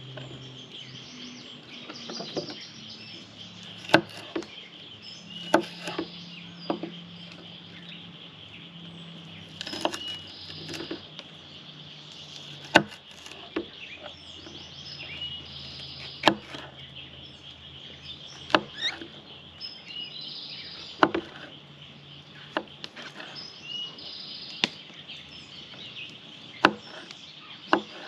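Kitchen knife cutting vegetables on a cutting board: single sharp chops at irregular intervals, about a dozen in all. Behind them, a steady high buzz of insects and occasional bird chirps.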